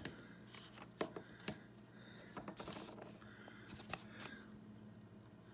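Hard plastic toy track pieces being handled and fitted together: a few sharp clicks and knocks, with brief rustling in between.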